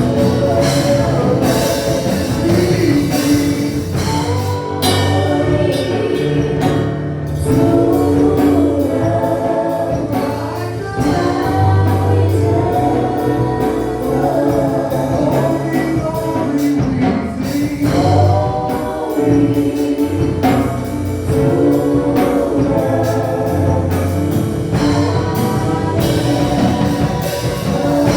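Gospel worship music: a praise team singing with a band of bass, keys and drums, the drums keeping a steady beat.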